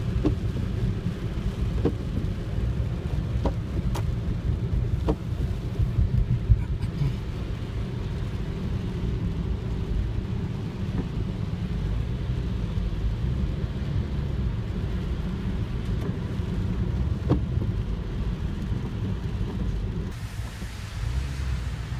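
Rain falling, under a steady low rumble, with a few scattered sharp ticks of drops striking something. The rumble changes character about twenty seconds in.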